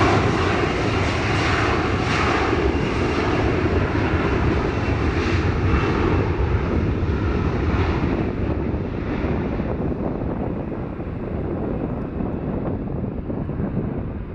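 Turbofan engines of a departing Embraer E175 regional jet: a steady jet noise that slowly fades and grows duller in the second half as the aircraft climbs away.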